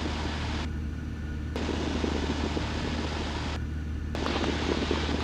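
Cessna 172 Skyhawk's engine and propeller droning steadily in the cockpit during the climb. A hiss over the drone cuts out briefly twice.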